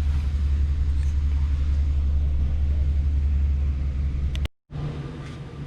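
Pickup truck engine idling steadily with a low rumble, just after an oil change. It cuts off abruptly about four and a half seconds in, leaving a quieter low hum with a few faint clicks.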